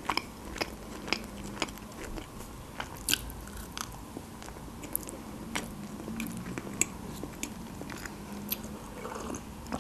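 Close-miked chewing of a crunchy chocolate snack, with many short crisp mouth clicks and crunches scattered through. Near the end comes a sip from a mug.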